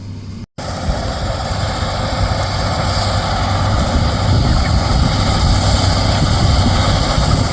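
Loram SBC-20 ballast cleaner running, a loud, steady rumble of heavy diesel machinery with a wide noise over it, cutting in after a brief silence about half a second in.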